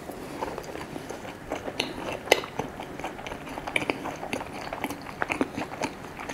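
A person chewing a mouthful of crepe close to the microphone, with irregular wet mouth clicks and smacks.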